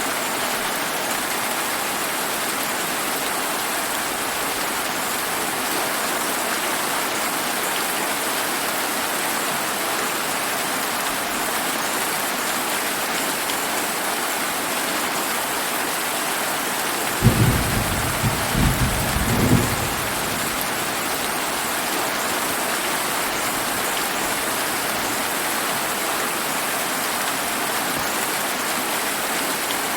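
Steady summer rain falling, an even hiss of drops throughout. About seventeen seconds in, a low roll of thunder breaks in with three or four loud peaks over some three seconds, then fades back under the rain.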